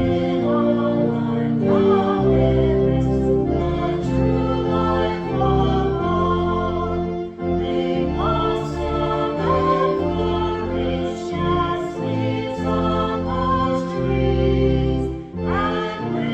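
A congregation singing a hymn together, accompanied by organ in long held chords.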